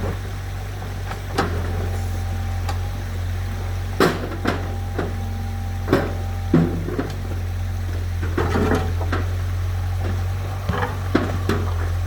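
Tractor engine idling steadily, with irregular knocks and clatter of stones being tossed onto the tractor's load.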